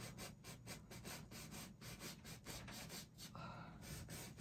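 Paintbrush bristles scrubbing in quick short strokes, about five a second, with a faint scratchy rubbing sound.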